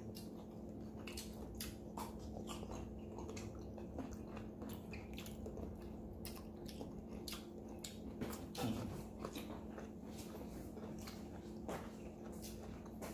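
Close-miked chewing and biting as a person eats roasted chicken with their hands: many small crunchy, wet mouth clicks, over a faint steady hum.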